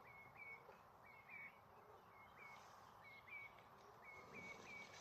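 Faint bird calls: short, hooked notes, mostly in pairs, repeated every half second or so.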